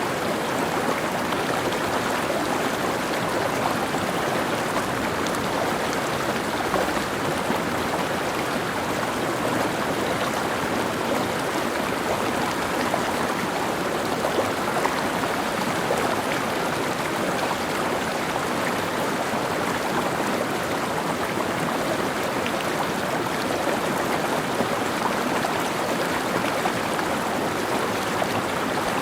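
Mountain stream flowing over rocks: a steady rush of running water with small splashes and gurgles.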